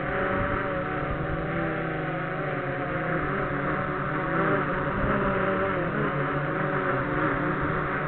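XK X380 quadcopter's four motors and propellers whining steadily, several tones drifting up and down in pitch as the throttle changes against the wind, with wind rumbling on the microphone.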